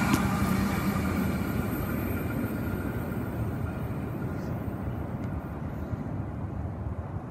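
A C set double-deck electric train running away into the distance, its rumble fading steadily. A few faint ticks sound partway through.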